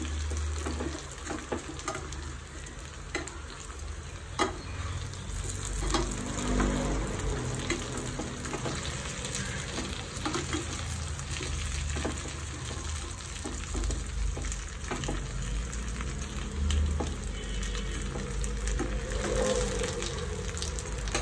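Fried chicken pieces sizzling in hot oil in a pan while a spoon stirs and tosses them, with scattered clicks of the spoon against the pan. This is the final toss that coats the chicken with fried onion and chilli.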